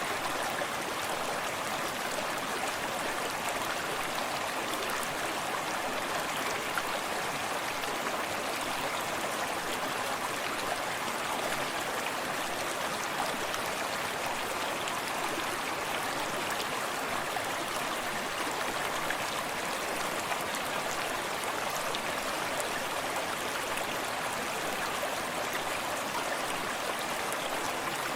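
A forest stream running steadily over stones, with small splashes and trickles close by.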